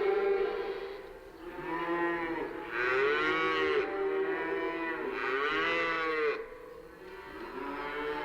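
Cattle mooing: a series of drawn-out calls, each rising and then falling in pitch, the loudest two in the middle.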